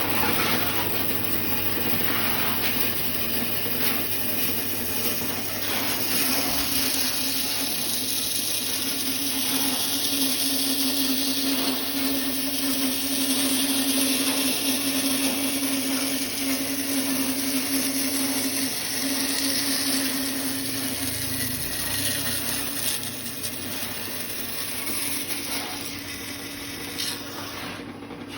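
Electric power tool cutting into a block of cẩm phèo wood, its motor running steadily under load with a dense cutting noise over it. The motor's tone dips about two-thirds of the way through, then picks up again.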